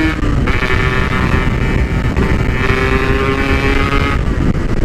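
Yamaha RX-King two-stroke engine through a PK1 packing-power exhaust, held at high, nearly steady revs and easing off near the end, with wind rushing over the microphone. The revs stay up while the clutch slips.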